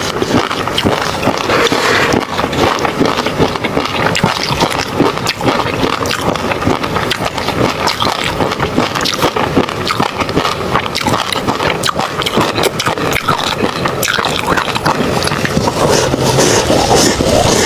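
Close-miked mouth eating sounds: steady chewing with dense, sharp crackling clicks and wet smacks.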